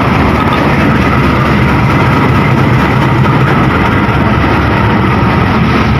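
Diesel train locomotive's engine running loud and steady, with a low engine drone under a rushing noise.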